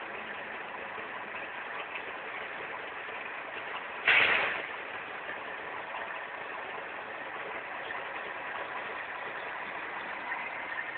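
Steady vehicle engine noise, with one sudden loud hiss about four seconds in that fades away within half a second.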